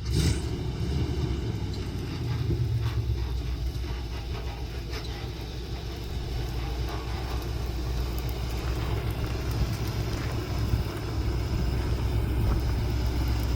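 A vehicle engine running with a steady low rumble that swells and eases a little.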